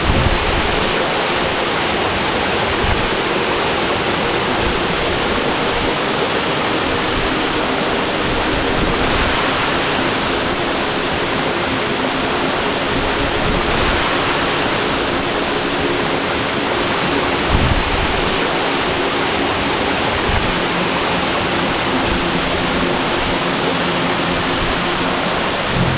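Waterfall pouring down, a loud, steady, even rush of water that barely changes.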